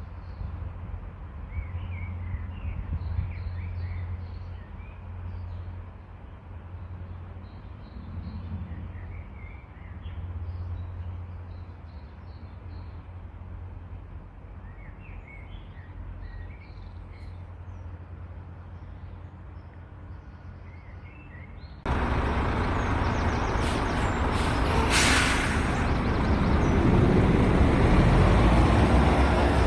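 Small birds chirping sporadically over a low, steady rumble. About two-thirds of the way through, a loud, steady rushing noise cuts in suddenly and covers everything, with a short sharp hiss a few seconds later.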